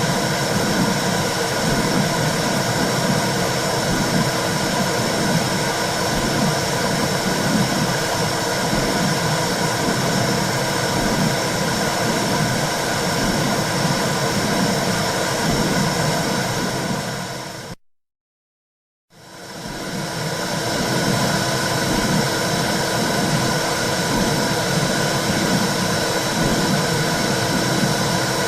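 Womb sound for soothing a baby: a steady rushing hiss with a low whooshing pulse about once a second. It fades out to silence for about a second just past halfway and fades back in.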